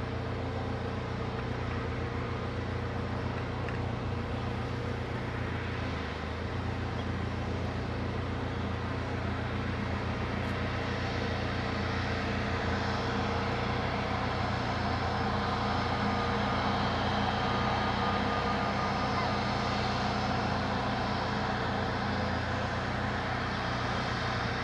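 Airbus A320neo jet engines running, a steady hum and whine that grows a little louder after about the middle.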